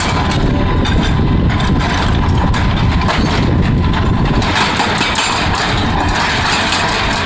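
Excavator's diesel engine running steadily, a loud continuous mechanical din.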